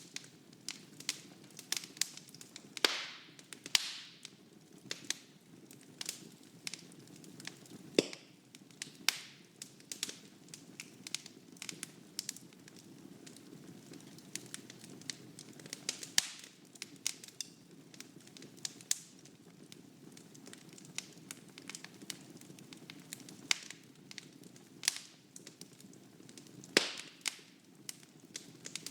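Wood fire burning in a fireplace: a low steady rush of flame with frequent irregular crackles and sharp pops from the burning logs, a few of them louder.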